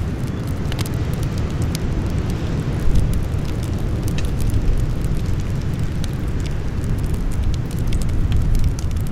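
Campfire burning, with frequent small crackles and pops scattered over a steady low rumble.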